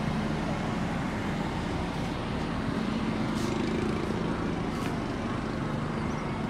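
Steady rumble of a train at the station, with an even low engine hum running under it.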